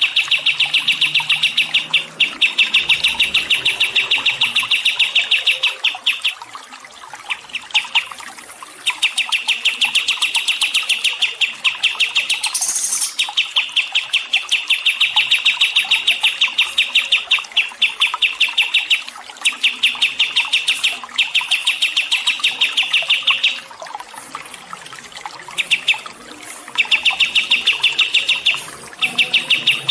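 A songbird singing long runs of rapid, evenly repeated high chirps, a fast trill that goes on for several seconds at a time with short breaks between runs.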